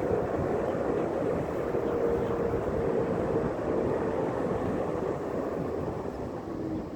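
Tram running along the street: a steady rumble with a faint motor tone that drops in pitch near the end.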